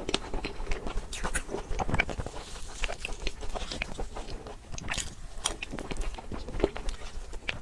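Close-miked eating of a dessert: irregular chewing and biting sounds with many small wet clicks and smacks.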